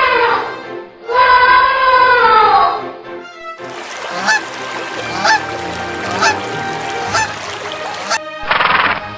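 Ducks calling: two long falling honk-like calls, then short calls about once a second over a steady hiss, with a loud burst of sound near the end.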